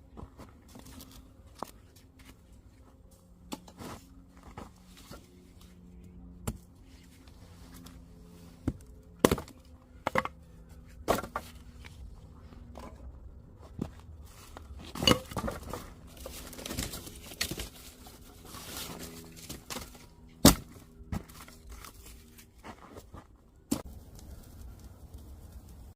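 Irregular sharp knocks, snaps and rustling of someone handling things, with a few much louder knocks and a faint steady hum underneath.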